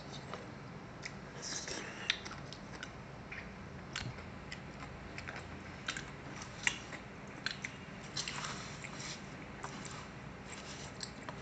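Close-up eating sounds of a halo-halo shaved-ice dessert: irregular bites, chewing and crunching, with scattered sharp clicks.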